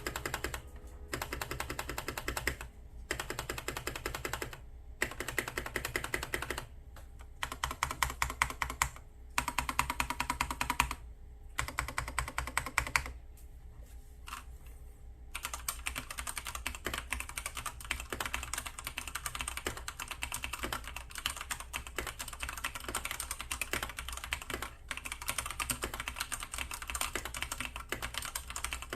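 Typing on a Keychron C2 mechanical keyboard: rapid key clacks in short runs with brief pauses, turning into continuous steady typing about halfway through.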